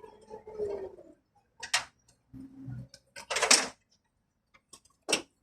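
Sharp clicks and short clattering bursts from handling tools and car-door parts during a window-regulator repair; the loudest burst comes about three and a half seconds in, and a last sharp click comes near the end.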